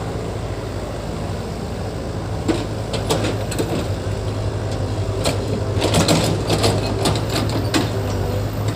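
Heavy-equipment engine running steadily, with a string of metallic clanks and rattles through the middle, like tracks or a steel implement working.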